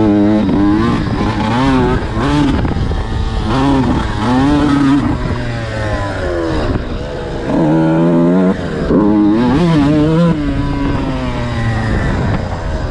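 Motocross dirt bike engine under hard riding, its pitch climbing and falling again and again every second or two as the throttle is opened and shut.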